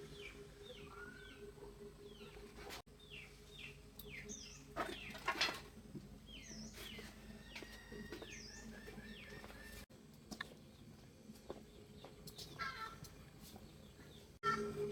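Birds chirping: runs of short, high notes that slide downward, with a louder burst of calls about five seconds in.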